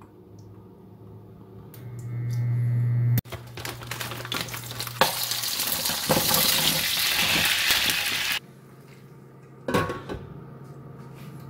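Frozen chive japchae seafood dumplings frying in hot oil in a nonstick pan, sizzling loudly for about five seconds after a low hum at the start. Near the end a stainless lid clanks onto the pan and the frying goes on more quietly under it.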